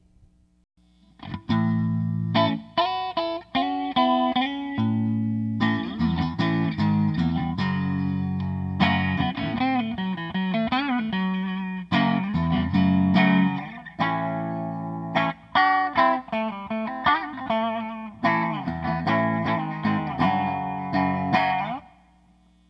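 Electric guitar with Fretwire Tron-style humbucker pickups, played through a Johnson modeling amp miked with a Shure SM57: a run of chords and single-note phrases, with bent and wavering notes near the middle. It starts a second or so in and stops just before the end.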